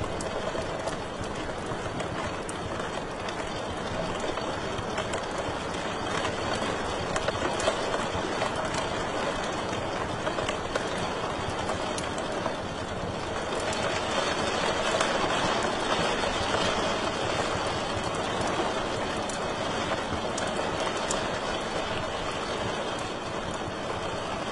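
Wood fire crackling in a fireplace: a steady hiss with scattered sharp pops, growing a little louder for a few seconds past the middle.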